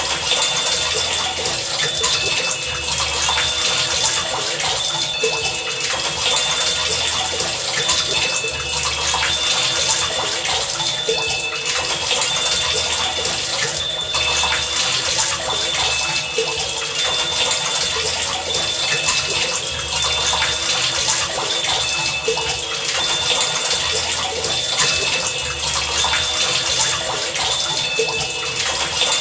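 Heavy rain falling in a steady, dense hiss. Under it a low pulse repeats about every two seconds, and short high ringing tones come and go.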